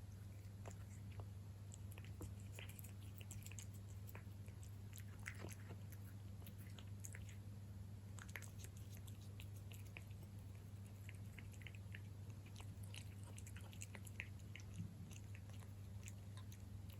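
A cat chewing and lapping wet cat food close to the microphone: irregular small clicks and smacks, over a steady low hum.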